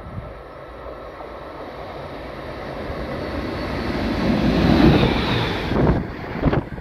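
InterCity train hauled by a DB class 146 electric locomotive approaching and passing, its rumble and rail noise growing steadily louder and peaking about five seconds in, with wind on the microphone.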